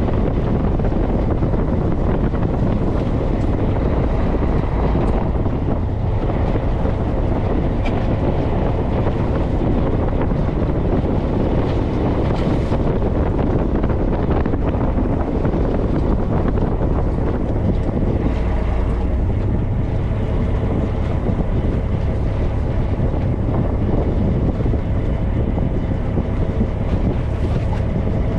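Charter fishing boat running underway: a steady rumble of engine and rushing water, with wind buffeting the microphone.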